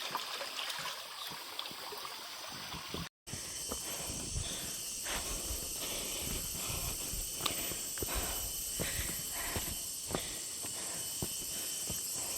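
Steady high insect drone of the rainforest, with footsteps on a jungle trail at a walking pace, about two a second. There is a short break in the sound about three seconds in.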